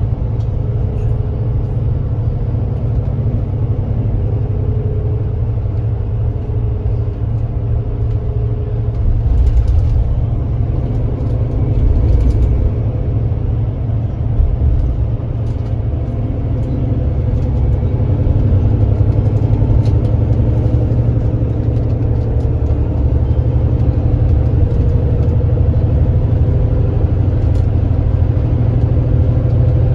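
Engine of a Kia Granbird Sunshine coach running under way, a steady low drone with road rumble, growing a little louder about two-thirds of the way through.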